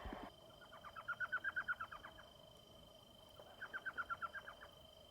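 Elf owl calling: two rapid series of short, high yelping notes, each lasting a second or more, a second or so apart.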